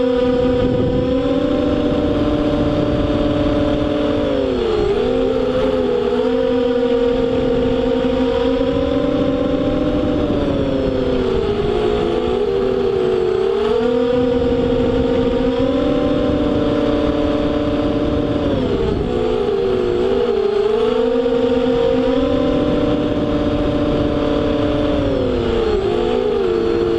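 FPV racing quadcopter's electric motors and propellers whining steadily in flight, with rushing air noise. The pitch dips and climbs back every six to eight seconds as the throttle changes on each lap of the oval.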